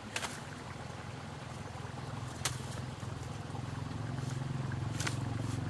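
A low engine hum that grows steadily louder, with a few sharp clicks.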